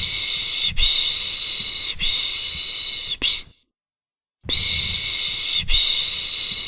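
Soothing 'piş piş' shushing for a baby: a long hissing 'shhh' repeated rhythmically, each shush about a second long. Three shushes end in a short one, a pause of about a second follows, then the shushing starts again.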